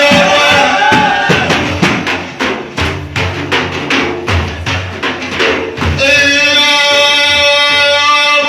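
Frame drums beaten in a steady rhythm of roughly three to four strokes a second, with voices under them. About six seconds in, a chanted vocal line takes over and is held on a steady note.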